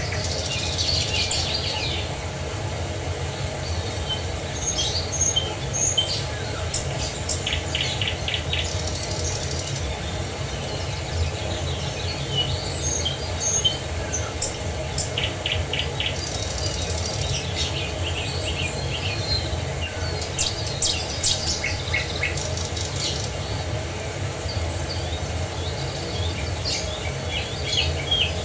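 Several small songbirds chirping and trilling in short repeated phrases, spread through the whole stretch, over a steady low background rush.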